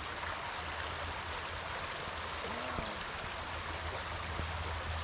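River water rushing steadily over rocks, a constant even flow.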